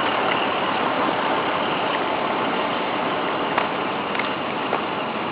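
Steady outdoor street noise of road traffic, an even rushing hiss with a few faint ticks.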